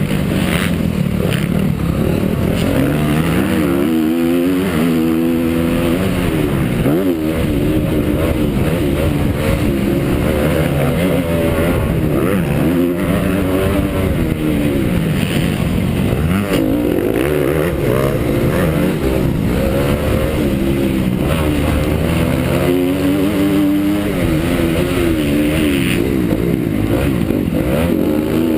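Honda CRF250 four-stroke motocross bike engine racing, the revs climbing and dropping again and again through gear changes and corners, with wind rushing on the microphone.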